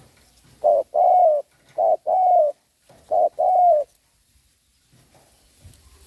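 Spotted dove cooing: three coos about a second apart, each a short note followed by a longer, drawn-out one, then it falls quiet.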